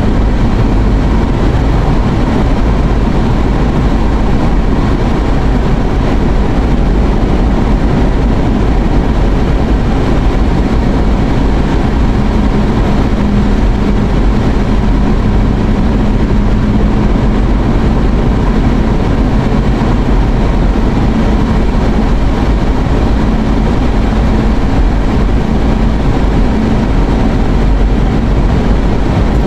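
Steady, loud road and engine noise of a car being driven, heard from inside the cabin.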